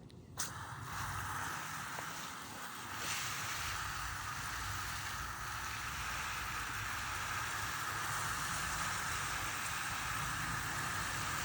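Garden hose spraying water steadily onto plants and soil, a constant rain-like patter.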